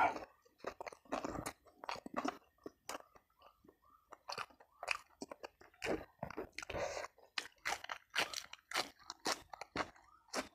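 A person chewing crunchy food close to the microphone, with irregular crisp crunches and wet mouth sounds.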